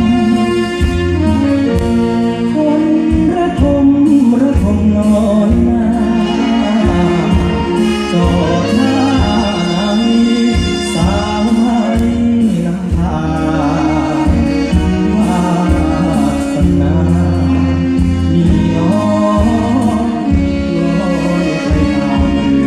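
Slow Thai song sung by a solo singer with a live band accompanying, the voice carrying long held, wavering notes over a steady beat.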